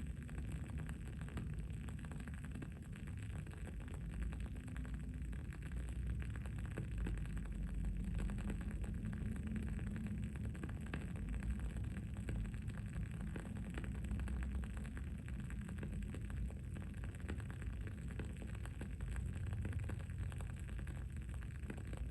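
Wood-wick candle burning with frequent small, irregular crackles over a steady low rumble of background noise.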